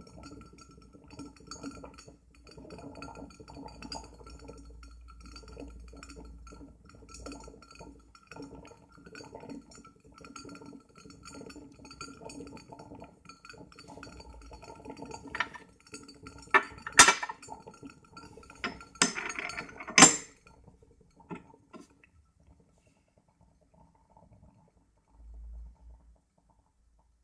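Glass parts of a Cona vacuum coffee maker clinking and knocking together, a handful of sharp clinks about two thirds of the way through, the loudest of them near the end of that run. Before them there is a steady, busy low-level sound, and after them near silence.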